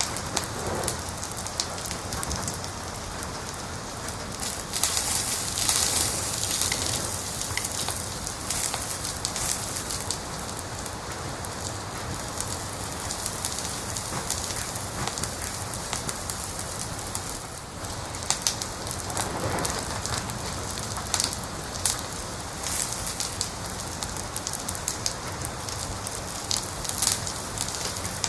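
Wood fire crackling and popping over a steady hiss, with sharp crackles scattered throughout and a louder hissing stretch about five seconds in.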